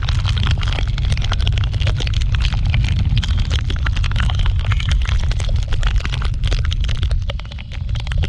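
Heavy wind buffeting on the microphone during a scooter ride in the rain, with a dense patter of sharp ticks from raindrops striking the mic. It eases briefly near the end.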